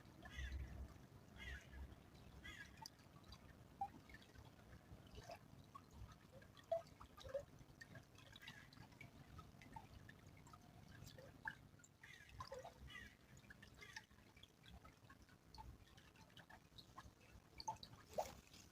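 Faint trickle of a small stream, with scattered irregular drips.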